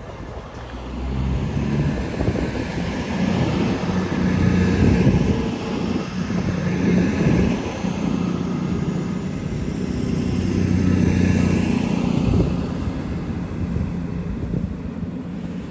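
A train passing close by, with a low engine drone that swells and eases, and a thin high whine that comes in about two-thirds of the way through.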